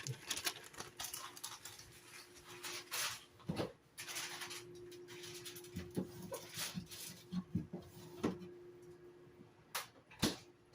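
Quiet kitchen handling noises: scattered soft clicks, rustles and a couple of light knocks, with a faint steady hum through the middle.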